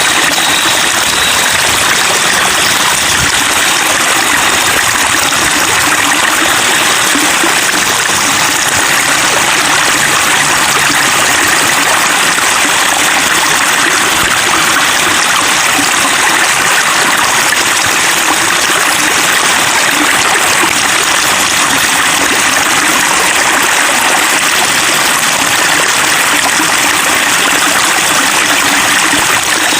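Flowing water trickling and babbling steadily, a continuous even splashing rush.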